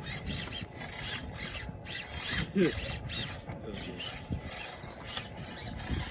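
Small 1/24-scale RC rock crawlers (Axial SCX24) scraping and grinding over rocks, their tyres and chassis rubbing on stone along with the whir of their gears, with one brief sharp squeak about two and a half seconds in.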